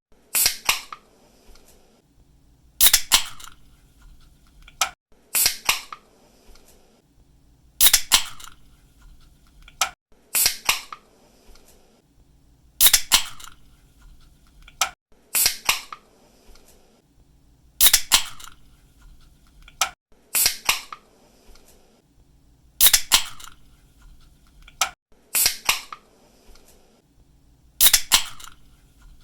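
Aluminium soda or energy-drink can pull tab cracking open with a sharp snap and a short fizz of escaping gas, followed by a smaller click. This repeats about every two and a half seconds.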